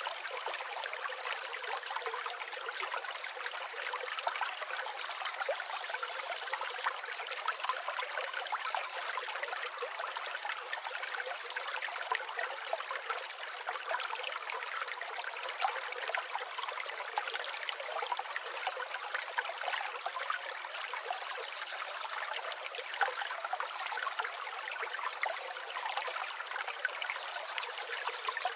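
River water flowing and trickling steadily over stones, with a faint short bird note about eight seconds in.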